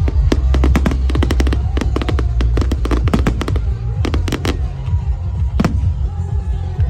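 Fireworks bursting in rapid, dense volleys of sharp cracks and bangs over deep booms, with music playing alongside.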